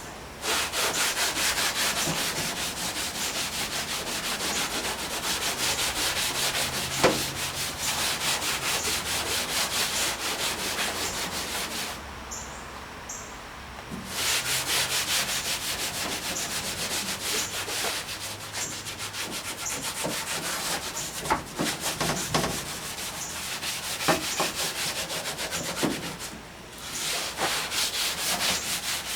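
Scotch-Brite pad scrubbing the painted steel body of a VW truck in rapid back-and-forth strokes, working off the top paint to bring up the old patina and lettering underneath. The scrubbing stops for about two seconds roughly twelve seconds in, then carries on.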